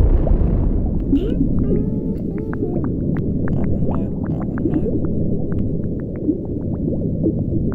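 Underwater sound effect: a deep, continuous rumble with many small bubbling pops.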